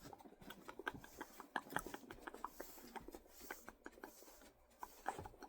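Close-miked soft, irregular clicks and crackles from coconut, several a second.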